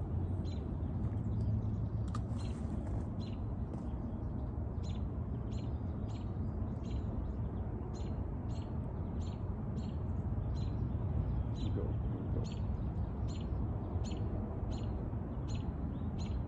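A bird repeating a short, high chirp at an even pace, about one and a half to two times a second, over a steady low outdoor rush.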